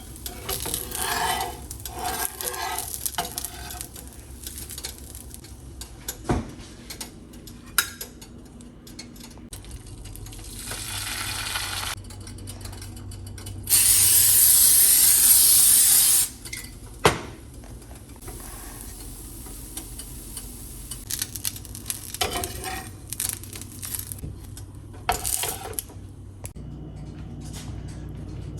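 Cooking on a hot pan: scattered knocks and scrapes of utensils, and a loud sizzle lasting a couple of seconds around the middle.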